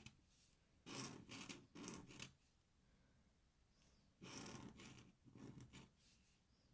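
Faint scratching of an ink pen drawing strokes on paper, in two short runs: one about a second in and another a little past four seconds.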